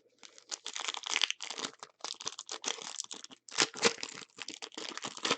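Plastic trading-card pack wrapper being torn open and crinkled by hand, an irregular run of crackling and rustling.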